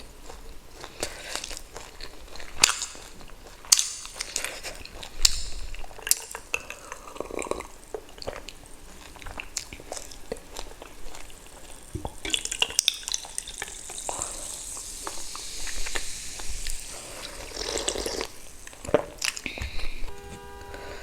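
Close-miked eating sounds of a person eating spicy pork dumplings and pork ribs: wet chewing and smacking with many short clicks. A longer hissy, wet stretch runs through the second half.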